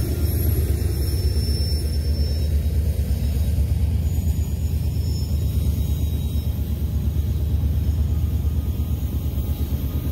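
Freight train passing close by: a BNSF GE wide-cab diesel locomotive goes by first, then coal hopper cars roll past on their wheels and rails, making a steady heavy low rumble. The sound is fuller in the first few seconds while the locomotive passes, then settles into the even rumble of the cars.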